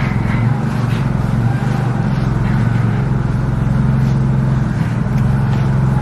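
A vehicle engine running steadily with an even, low drone.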